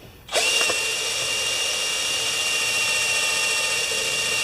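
Electric drill starting about a third of a second in and running steadily with a high whine, drilling a rivet hole in a compressor's oil sump cover.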